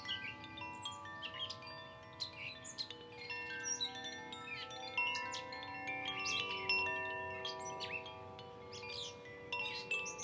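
Koshi wind chimes (the Fire and Air tunings) ringing: many overlapping, long-sustained tuned notes. Songbirds chirp and trill over them throughout.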